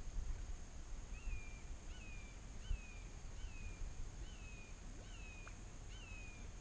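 A bird calling a series of seven short notes, each a quick rise then a downward slide, about one every 0.7 seconds from a second in, over a low rumble.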